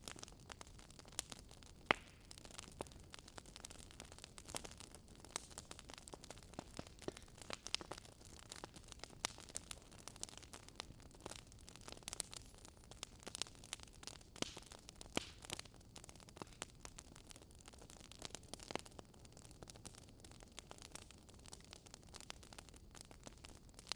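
Campfire crackling faintly: a low steady hiss with irregular sharp pops and snaps of burning wood.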